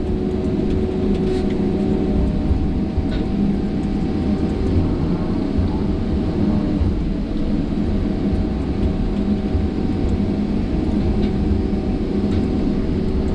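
Diesel engine of a tracked log loader (shovel) running steadily under work, a constant low rumble with a steady drone on top.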